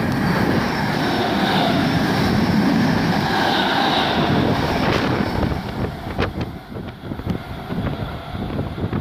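Class 317 electric multiple unit running past along the platform: a loud, steady rumble of wheels and rushing air for about five seconds, then dying down to a quieter noise broken by a few sharp clicks.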